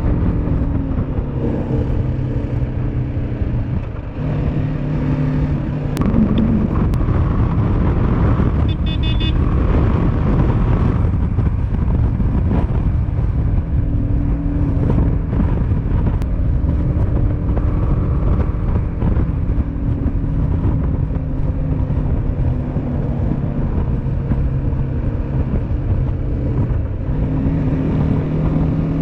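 Motorcycle engine running while riding, over a dense rushing noise; the engine note shifts up and down several times with throttle and gear changes, dropping briefly about four seconds in.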